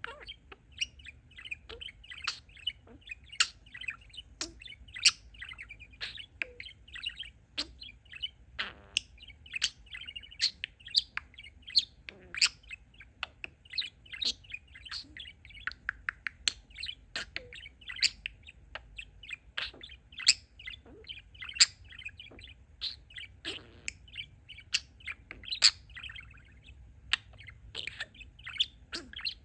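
Pet budgerigar chattering and warbling: a rapid, unbroken run of chirps, clicks and warbles.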